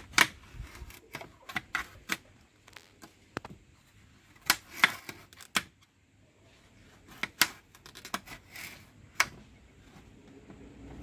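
Scattered light clicks and taps at irregular intervals, with quiet stretches between.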